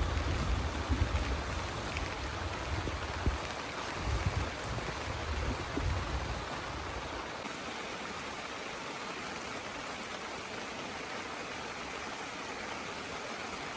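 Heavy rain falling steadily with an even hiss. A low, uneven rumble runs under it for the first half and dies away about seven seconds in.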